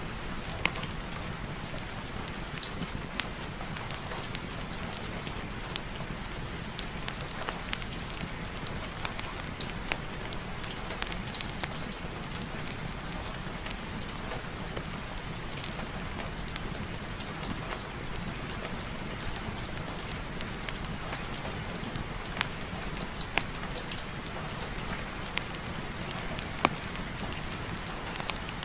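Steady rain falling, with scattered sharp clicks throughout.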